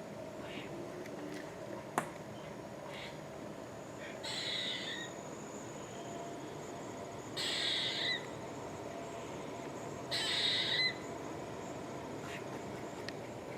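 A bird's hoarse crying call, repeated three times about three seconds apart, each under a second long and ending with a slight upward flick, with fainter calls earlier on. It is taken for a young bird crying for food. A single sharp click sounds about two seconds in.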